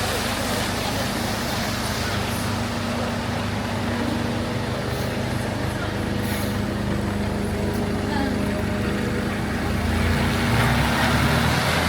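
Rain on a city street with a motor vehicle's engine running close by, a steady hum over the hiss of rain and wet traffic; a deeper rumble swells near the end as a vehicle passes.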